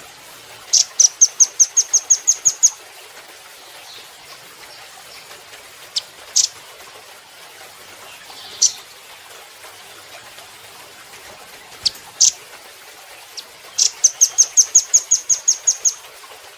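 Velvet-fronted nuthatch (red-billed 'rambatan') calling: two rapid trills of about a dozen sharp, high notes, one near the start and one near the end, with a few single sharp chips between them, over a steady faint hiss.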